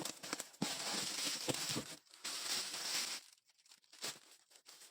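Packaging being handled: crinkling and rustling with a few light knocks for about three seconds, then only faint handling ticks.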